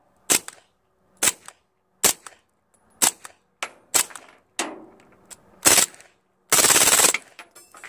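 Suppressed PTR 9CT 9mm MP5-clone pistol firing heavy 158-grain subsonic rounds: about eight separate shots at roughly one a second. A longer, loud noise lasting about half a second follows near the end.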